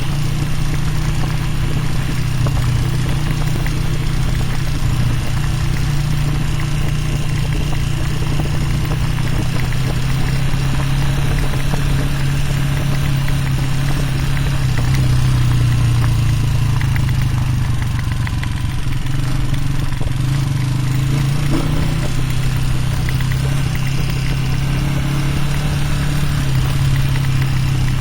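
Honda CG single-cylinder motorcycle engine running steadily, with a brief slight drop in level about two-thirds of the way through.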